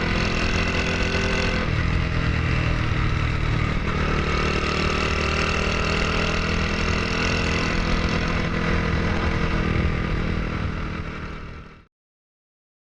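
Honda Super Cub's air-cooled single-cylinder four-stroke engine, bored up with a SHIFTUP 110cc kit, running steadily, its pitch shifting about 2 s and 4 s in, then fading out near the end.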